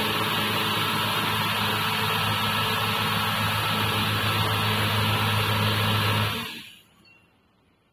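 Automatic car wash machine running on test: a steady motor hum under a loud, even hiss, which fades away to near silence near the end.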